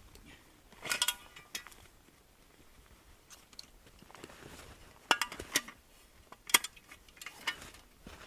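Shovel digging into snow, a series of short crunching scoops and scrapes: one about a second in, then several more from about five seconds on.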